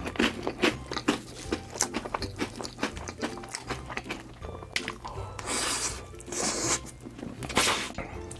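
Close-miked eating sounds: cake being chewed, with many wet clicks and smacks of the mouth, and two longer hissy noises a little past halfway. Faint background music runs underneath.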